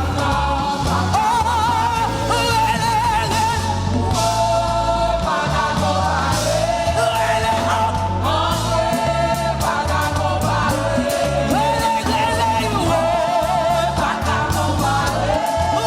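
Live gospel worship song: voices singing with backing band of bass, keyboard and drums.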